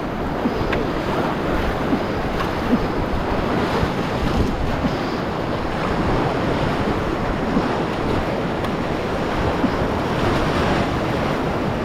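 Rushing whitewater of a river rapid, a steady rush of water with wind noise on the microphone.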